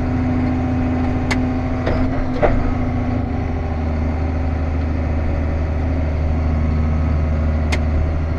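Diesel engine of John Deere farm machinery running steadily at an even pitch, with a few short sharp clicks: three in the first few seconds and one near the end.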